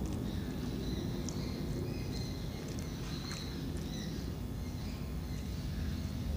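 Small birds chirping in short, high calls scattered over a steady low background rumble.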